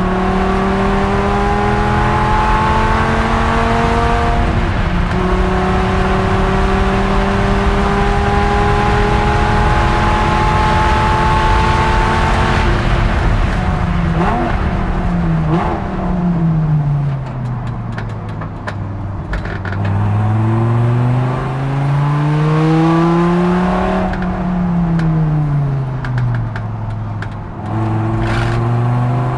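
Dodge Viper ACR-Xc's V10 engine heard from inside the cockpit, pulling hard with revs climbing, one upshift about four seconds in, then a longer climb. Around halfway it drops through the gears with quick throttle blips, then runs at low revs, rising and falling slowly.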